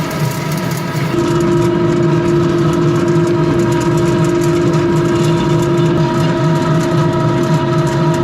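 Heavy machinery running steadily with a low drone and several steady whining tones; a further steady tone comes in about a second in.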